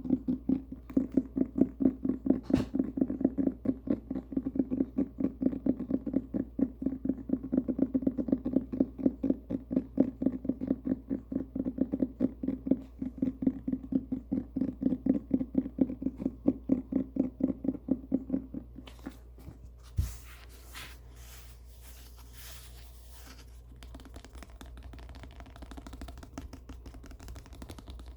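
A domestic cat purring close to the microphone, a low steady purr with a quick rhythmic pulse, which stops about two-thirds of the way through. After it come soft, dry rustling and scratching sounds of a book being handled, with one light knock.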